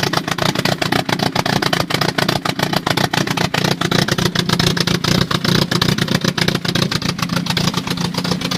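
Car engine idling, heard at the tailpipe: the exhaust gives a steady, rapid pulsing.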